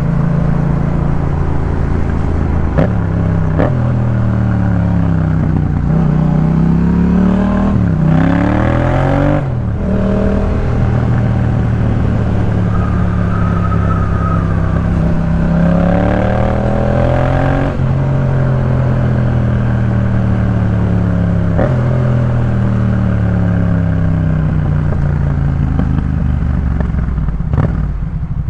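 2018 Yamaha MT-07's parallel-twin engine through a Jeskap K4 full aftermarket exhaust, heard while riding. It revs hard, its pitch climbing steeply and then cutting off sharply, about a third of the way in and again past halfway. Between these the pitch falls slowly as the bike decelerates.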